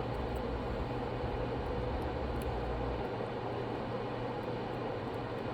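Steady whooshing fan noise with a low hum from an electric blower at a soldering bench, running while old solder is being melted off a circuit board. The deepest part of the rumble drops away about three seconds in.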